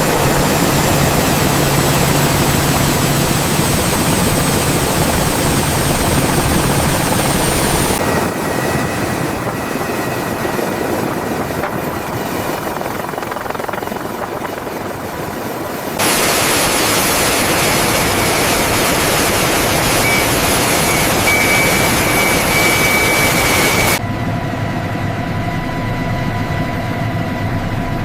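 Helicopter turbine engine running loud, with a high whine rising slowly over the first several seconds as it spools up. The sound changes abruptly about every eight seconds, alternating between louder and quieter stretches.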